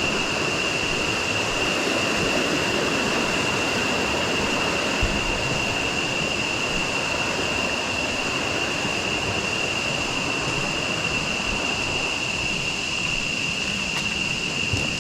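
Steady rushing of a jungle river and waterfall, with a thin, steady high-pitched drone running over it.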